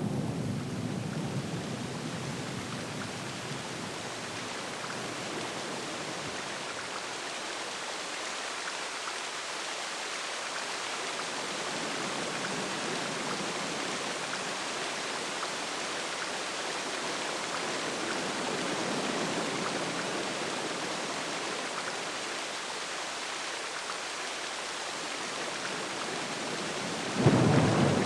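Steady heavy rain hissing, with a sudden loud rumble of thunder near the end.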